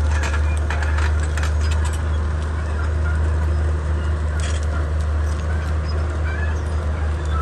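Komatsu D31P bulldozer's diesel engine running steadily, with sharp clicks and clanks during the first second and a half and again about four and a half seconds in.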